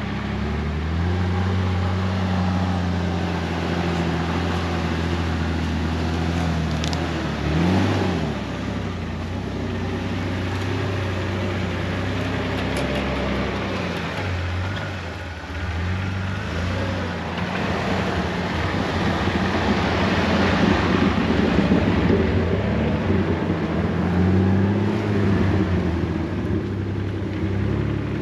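Jeep Wrangler TJ's engine running at low revs as it is driven slowly on a trail. The pitch dips and rises about eight seconds in, the sound grows louder and rougher past the halfway point, and the revs rise again near the end.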